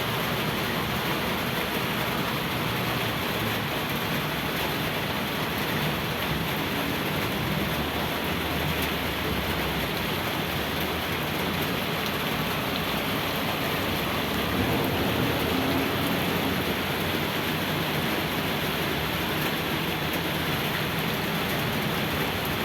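Rain falling steadily, an even hiss of drops on the surfaces around.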